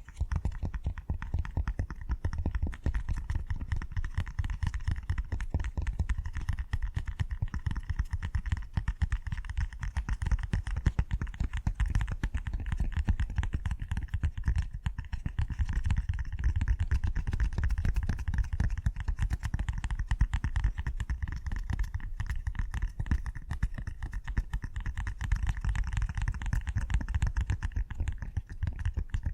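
Silicone push-pop fidget toy having its bubbles pressed in a rapid, unbroken stream of soft pops.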